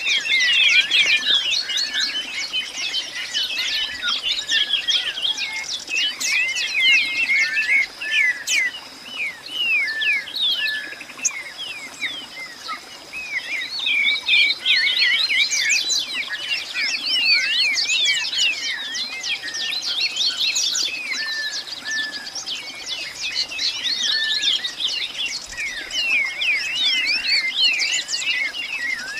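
Many birds chirping at once: a dense chorus of short, overlapping chirps and calls that thins out briefly twice, over a faint steady high-pitched tone.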